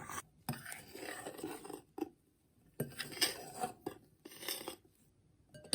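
A utensil stirring and folding egg yolk and milk powder together in a bowl: soft scraping strokes with light taps against the bowl, in three or four short bouts with pauses between.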